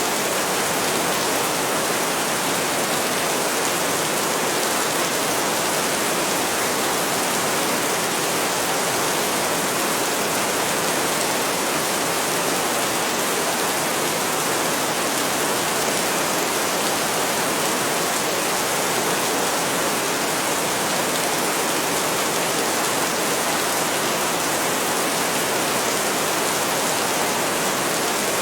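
Heavy rain falling steadily, a dense even hiss with no distinct thunder.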